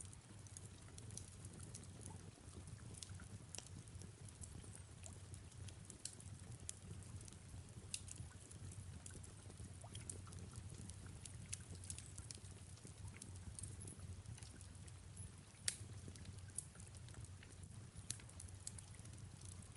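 Faint fireplace crackling, with scattered sharp pops and one louder pop about sixteen seconds in, over a low steady rumble and soft rain.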